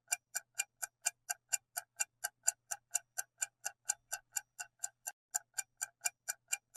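Clock-ticking countdown timer sound effect: steady, evenly spaced ticks, about four a second, marking the answer time in a quiz.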